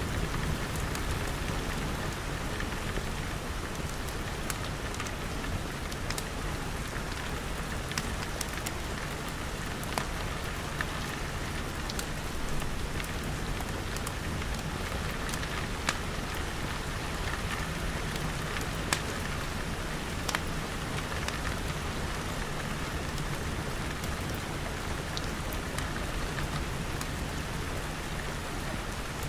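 Steady rain pattering, with scattered sharp crackles and pops from a fireplace fire.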